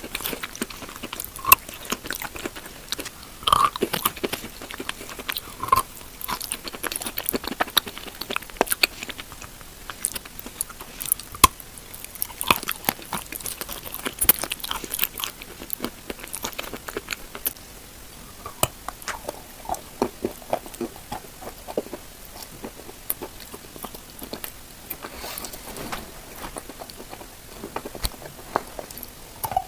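Close-up chewing and biting of chalk mixed into a paste: irregular crunching and many small wet clicks, with sharper crunches now and then.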